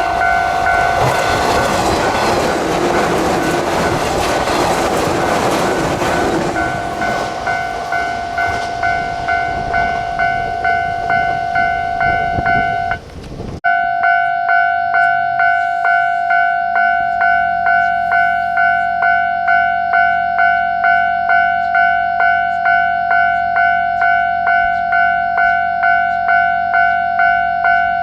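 Japanese level-crossing warning bell ringing in an even repeating beat, under the loud rumble of a train passing for the first half. After an abrupt cut about halfway, the crossing bell goes on ringing with a low steady hum beneath.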